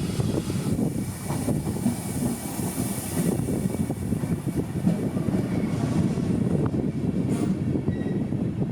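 DB Intercity passenger train running through the station: a steady rumble of wheels on rails.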